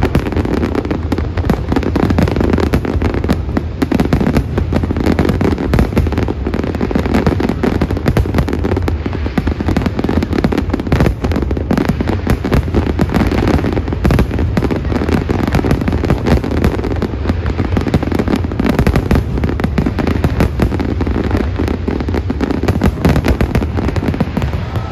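Aerial fireworks display: a dense, continuous barrage of shells bursting, with rapid bangs and crackling and no pauses.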